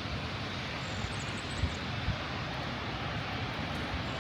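Steady outdoor background noise with wind rumbling on the microphone, and two short low bumps about two seconds in.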